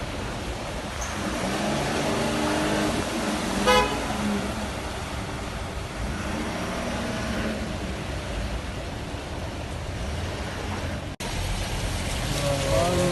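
Road traffic in a flooded street: steady noise of cars moving, with a short car horn toot about four seconds in and other held horn tones.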